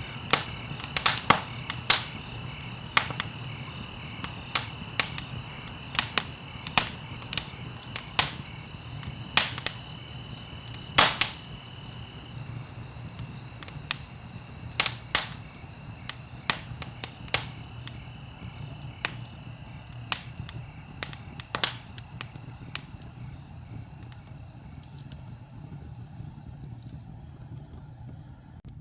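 Wood fire crackling in a fireplace: sharp, irregular pops and snaps over a low steady rumble. The pops come thick and fast at first and thin out after about twenty seconds.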